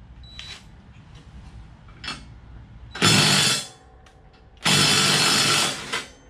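A power tool run in two bursts, a short one about three seconds in and a longer one just after, loosening the bolt that holds a mower blade on the deck spindle.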